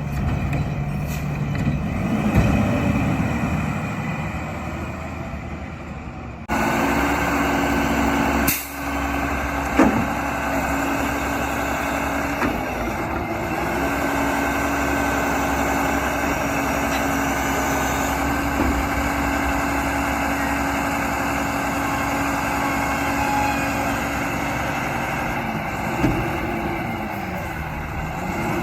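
Mack garbage truck with a Heil body running, a steady diesel drone with a steady hum over it, broken by a few short knocks and thumps. About six seconds in, the sound jumps abruptly louder.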